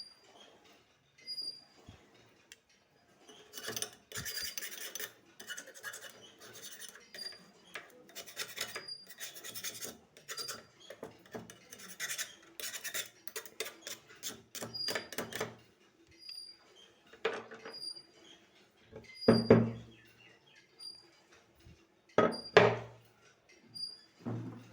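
Rapid scraping and rubbing strokes while an electric iron is worked on by hand, for about twelve seconds. Then three loud knocks a few seconds apart near the end.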